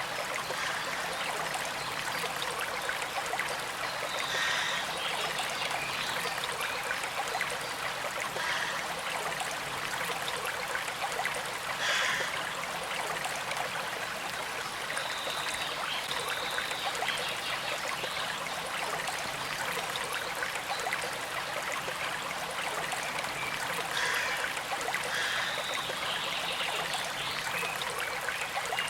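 Small creek flowing and trickling steadily, with a few brief brighter gurgles now and then.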